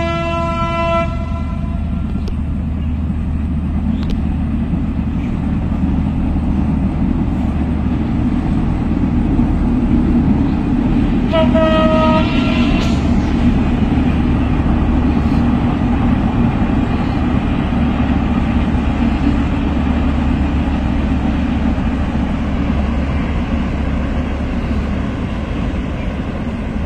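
Bangladesh Railway passenger train running past across open fields with a steady low rumble that swells towards the middle and eases near the end. Its locomotive horn sounds twice: one blast tails off about a second in, and another about a second and a half long comes near the middle.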